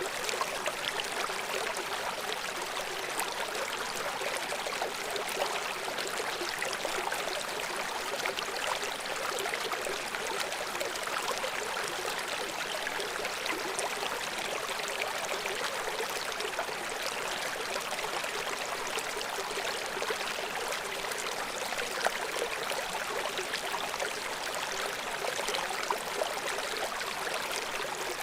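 River water rushing and splashing over rocks below a waterfall, a steady even rush.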